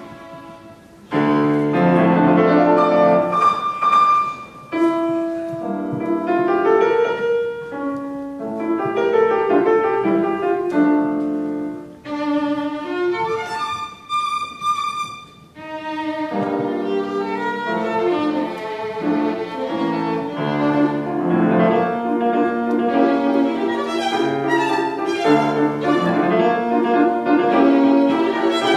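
Violin playing classical music with piano accompaniment. It comes in strongly about a second in, and there is a softer passage of high notes about halfway through.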